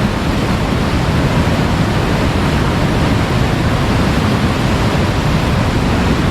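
Fast-flowing river, high and swift after rain, rushing with a steady, loud noise.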